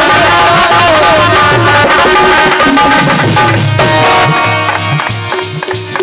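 Live Indian folk music: hand drums playing a steady rhythm under a wavering melody line. About four seconds in the melody drops away, leaving the drums, and high ringing percussion strokes join near the end.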